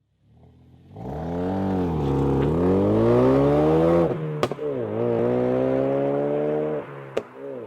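Ford Focus RS Mk3's turbocharged 2.3-litre four-cylinder revving through a non-resonated, valved Cobra Sport cat-back exhaust. The engine note comes in about a second in and swells and dips in pitch over two revs, each followed by a sharp crack.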